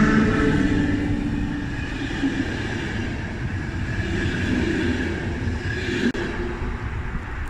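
A train running past on the track: a steady rumble of wheels on rails, slowly fading, with a few held tones dying away in the first second or so.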